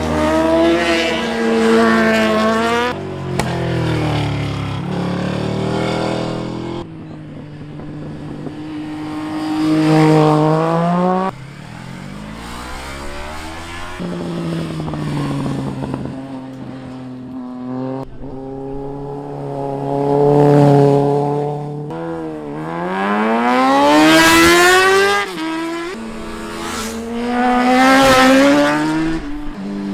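Street motorcycles passing one after another, engines revving hard as they accelerate through the gears. Each pass rises in pitch, swells in loudness and falls away, and there are about half a dozen of them.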